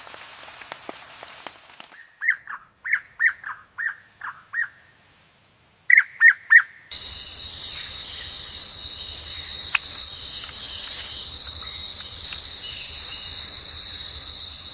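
A bird calling in a rapid series of short repeated notes, then three louder notes. About seven seconds in, a steady high-pitched buzzing starts suddenly and carries on.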